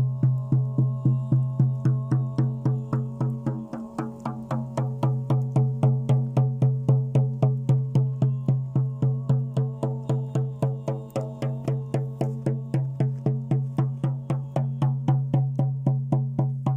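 A steady, low 'O' chanted as a drone on one pitch over an even drum beat of about three to four strikes a second. The drone dips briefly about four seconds in, then carries on.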